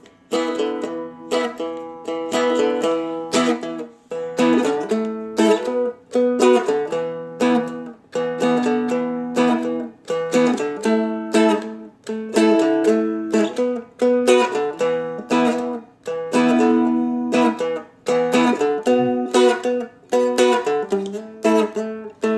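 A Seagull Merlin, a fretted dulcimer-style instrument, strummed in a steady blues rhythm through a 12-bar-based E, A, B chord progression, with a hammer-on on the top string.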